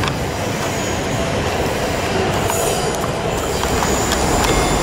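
Southern Class 377 electric multiple unit running past and away, a steady rumble of wheels on rail with a thin high-pitched wheel squeal, most marked in the second half.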